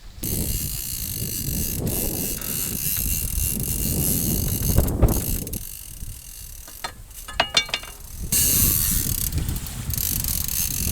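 A ratchet clicking in a short, evenly spaced run against steady wind and water noise on deck, with abrupt jumps in the sound between edited shots.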